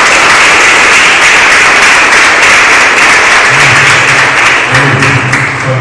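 Audience applauding with dense, loud clapping that begins to thin out near the end. Low sustained music notes come in about halfway through.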